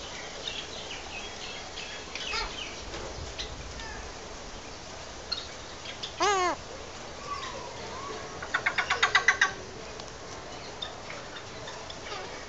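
A parrot calling: one loud warbling call about six seconds in, then a quick burst of about ten rapid notes near nine seconds, with faint scattered chirps in between.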